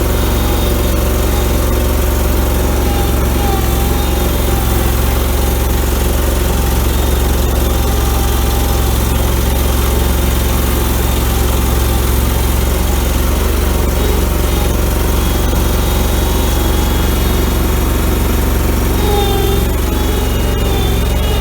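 Allmand tractor-loader-backhoe engine running steadily while the machine is driven forward and back on its Eaton hydrostatic transmission, freshly resealed, to warm it up and check for leaks. The engine note shifts slightly in pitch near the end.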